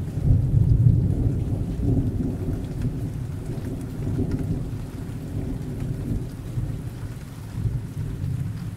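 Low thunder rumbling over steady rain, the rumble strongest in the first second or so and slowly dying away.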